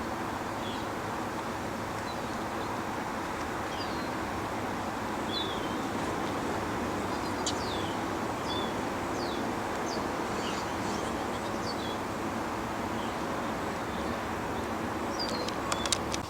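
Small birds chirping, with short high calls several times every few seconds, over a steady low background rumble. A few sharp clicks come just before the end.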